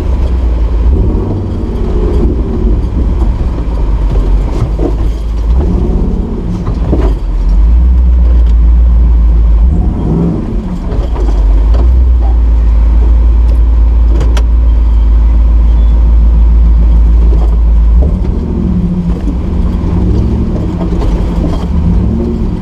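Nissan GQ Patrol winch truck's engine running under load while crawling off-road, heard from inside the cab, with the rumble building and holding steady through the middle stretch. Scattered knocks and rattles from the truck working over the terrain.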